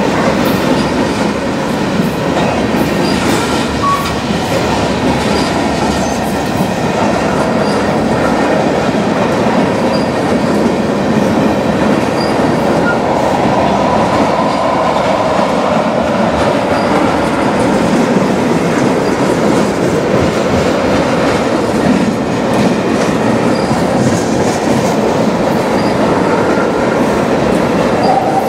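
Freight train tank cars rolling past close by: steady rumble of steel wheels on the rails, with clacking over the rail joints and a faint wavering wheel whine.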